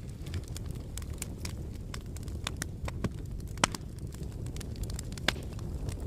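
Wood fire in a fireplace crackling: scattered sharp pops and snaps over a steady low rumble of the flames, with two louder pops about three and a half and five seconds in.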